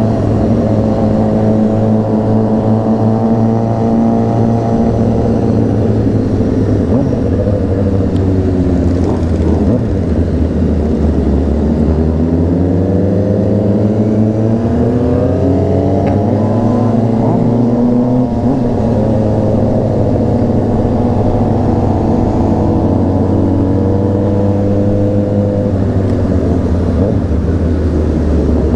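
Honda CBR600RR inline-four engine running while riding. The engine holds a steady pitch, then from about 8 to 18 seconds in the revs rise and fall several times as it accelerates through the gears, before settling back to a steady cruise.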